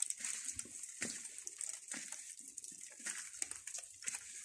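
Light rain falling: a faint, even patter of drops with scattered small ticks.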